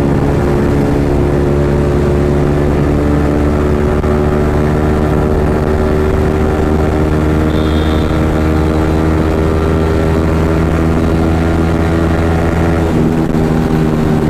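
Yamaha MT-15's single-cylinder engine running loud and steady through an aftermarket Akrapovic exhaust while cruising at an even speed, with the engine note changing near the end.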